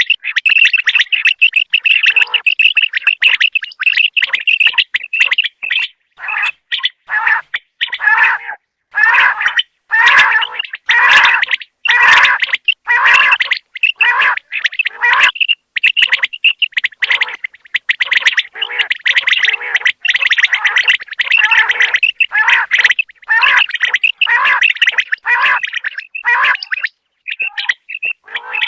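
Common quail calling over and over in quick, loud runs of high chirping notes with short breaks between them.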